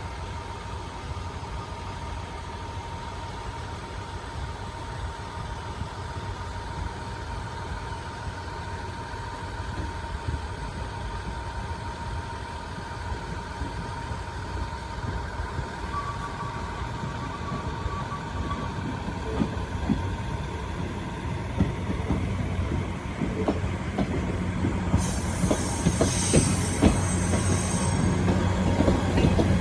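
415 series electric commuter train approaching slowly, its running sound growing steadily louder, with wheels clicking over rail joints more and more often in the second half. A high-pitched wheel squeal lasts about three seconds near the end.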